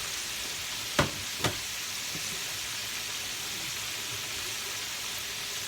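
Floured meat frying in hot oil, a steady sizzle, with two sharp knocks about a second in and half a second apart.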